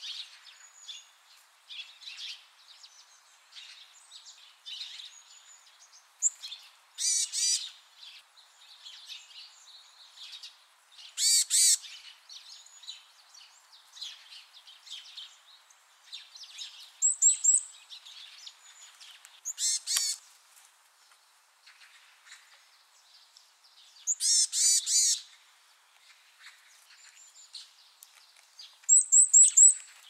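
Varied tit calling: short bursts of high, thin notes every few seconds, some given as quick runs of three or four notes.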